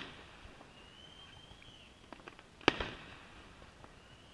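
Fireworks display: one sharp shell burst about two and a half seconds in, with a trailing echo. Before it, a thin whistle rises slightly for about a second, and another whistle starts near the end. Faint crackles are scattered between.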